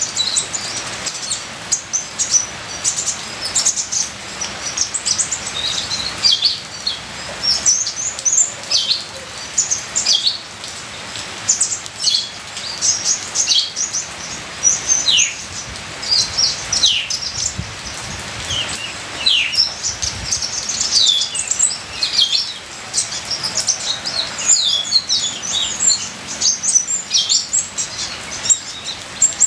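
Kolibri ninja (Van Hasselt's sunbird) singing a busy song of rapid high chirps and short falling notes, over a steady background of rain or trickling water.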